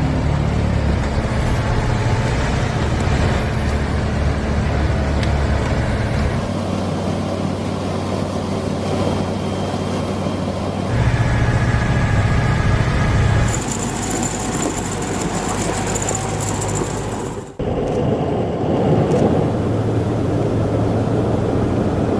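Heavy vehicle engines running steadily, as snow-clearing machinery works. The sound changes abruptly several times, with a brief drop about 17 seconds in.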